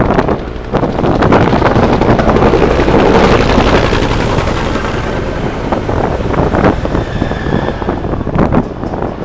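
Low-flying aircraft passing over, with a rushing engine sound that swells to its loudest about three seconds in and then fades, along with a faint high whine that drops slightly in pitch.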